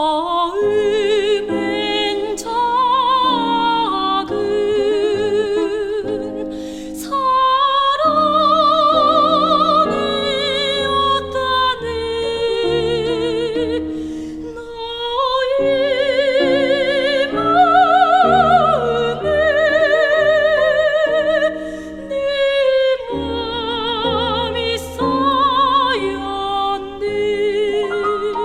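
Soprano singing a Korean art song (gagok) in a classical operatic style, long held notes with wide vibrato, over instrumental accompaniment, with short breaks between phrases.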